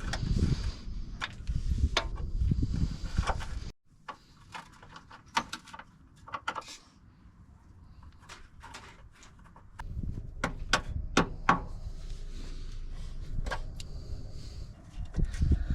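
Hand tools clicking and knocking against metal fittings as the old rubber brake line is unbolted from a Nissan 350Z's brake caliper and hard line, over a low rumble of handling noise that drops out for several seconds partway through.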